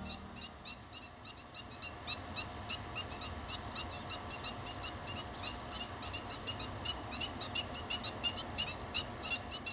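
Birds chirping: a dense run of short, high calls, several a second, over a low wind-like rumble.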